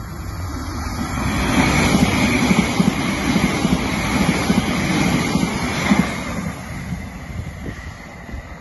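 Electric multiple-unit passenger train running past on the platform line: wheel-and-rail noise rises about a second in, stays loudest for several seconds with an uneven low rumble, then dies away.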